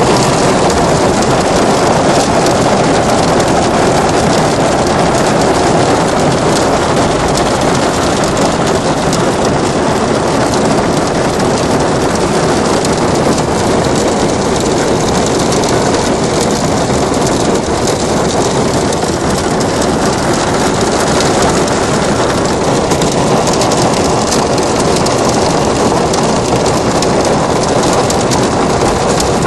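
Heavy hailstorm: dense hail falling and pelting surfaces in a loud, steady rush of noise.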